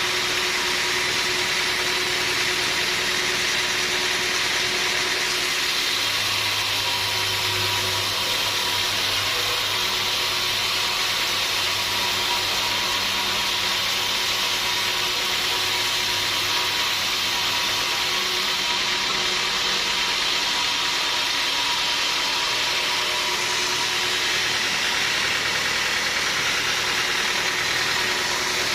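Sawmill machinery running steadily, a constant mechanical whir with a fixed whine. A low hum joins about six seconds in and fades out about twelve seconds later.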